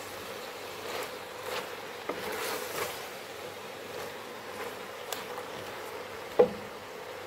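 Pork, onions and carrots stir-frying in an aluminium pot, stirred with a wooden spoon: a light sizzle with a steady hum underneath and a few faint scrapes. A sharp knock of the spoon on the pot about six seconds in is the loudest sound.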